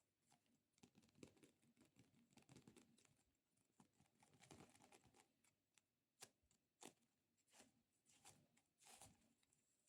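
Faint sticky crackling and soft clicks from fingers pressing on and peeling away from tacky squishy stress-relief toys, in irregular short bursts.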